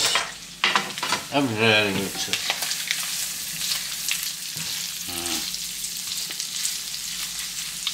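Pieces of meat and onion sizzling steadily as they fry together in butter in a pan.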